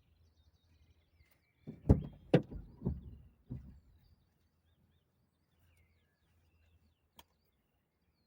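A quick run of four or five loud knocks and thumps about two seconds in, then a single sharp click near the end, over a low steady hum and faint bird chirps.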